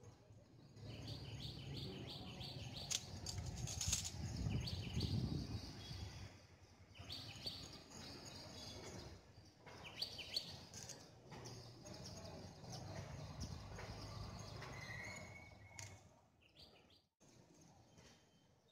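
Small birds chirping in short repeated clusters, with a brief clearer whistle near the end, over a low steady outdoor rumble.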